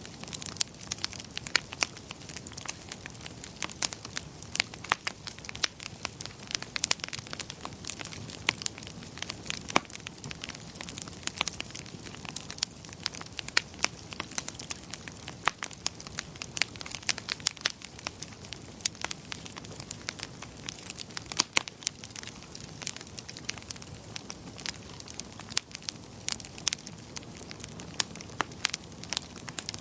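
Wood fire in a fireplace crackling: irregular sharp pops and snaps, several a second, over a steady low hiss of burning.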